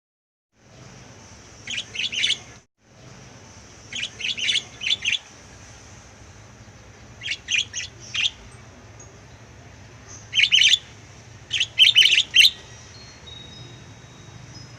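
Pet lovebirds chirping in about five short clusters of quick, high-pitched calls, spaced a few seconds apart, over a faint steady hiss.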